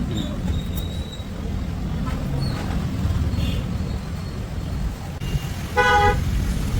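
A vehicle horn honks once, briefly, near the end, over a steady low rumble of road traffic.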